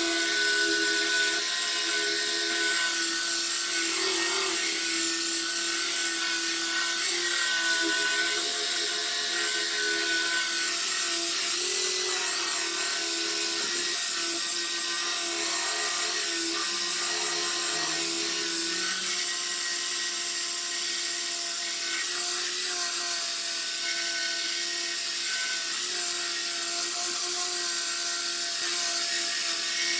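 Power sander running steadily, its motor pitch wavering slightly as it works a body panel, with a hiss of abrasive on the surface.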